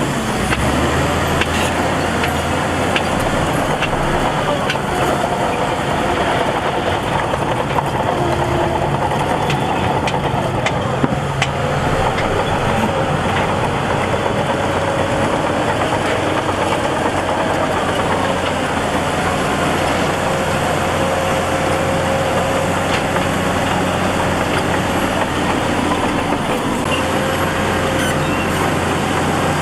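Heavy diesel earthmoving machinery running steadily: a constant engine drone with faint tones held higher up and occasional light clanks.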